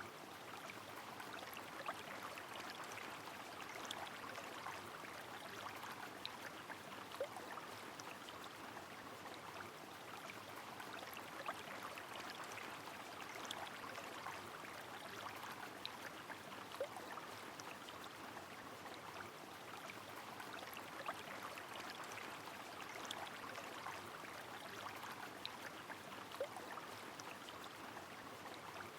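Steady rushing of a river with rain falling, and scattered sharp drip ticks every second or two.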